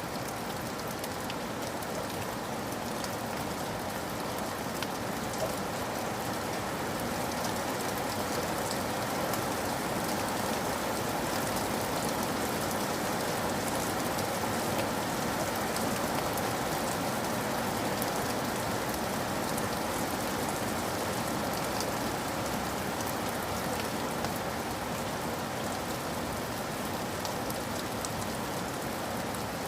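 Steady rain falling, a continuous wash of water with many small drop impacts ticking through it.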